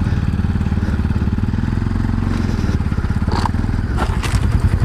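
Motorcycle engine running steadily at low revs, with its rapid, even firing pulse and a couple of brief clicks about three and four seconds in.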